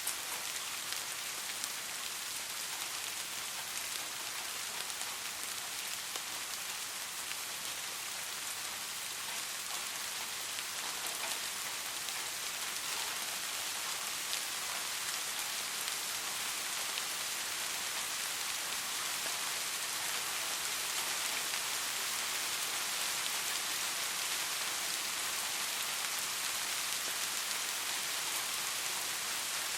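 Steady soft rain falling, an even hiss with scattered individual drops ticking.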